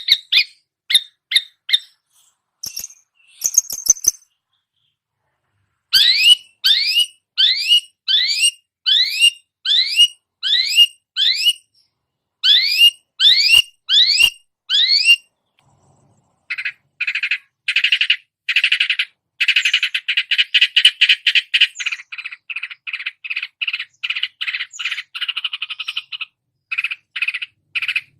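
Long-tailed shrike (cendet) singing mimicked songbird calls. First come a few short notes and high calls, then a long series of rising whistled notes at about one and a half a second. From about two-thirds of the way in, the song changes to a fast, harsh chatter of buzzy notes.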